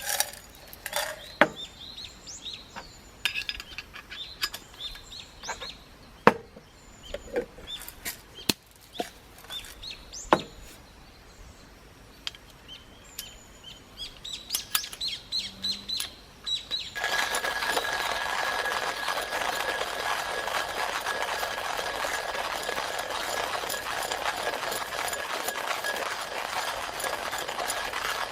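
Wild birds chirping among scattered clicks and clinks of coffee gear being handled. About two-thirds of the way in, a steady hiss starts suddenly, with a thin steady tone running through it, and stays loud.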